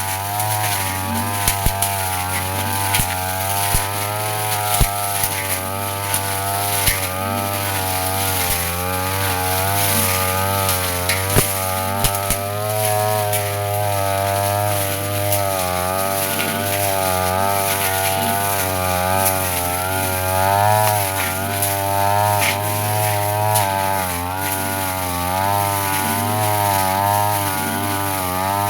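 Petrol brush cutter running at high speed with its blade spinning through grass; the engine pitch wavers up and down continually as it takes load, with scattered short sharp ticks.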